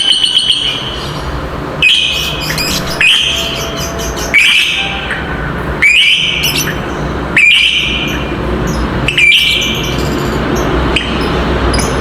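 Lovebird calling. A fast rattling trill (ngekek) ends within the first second, then a string of about seven shrill calls follows, one every second and a half or so.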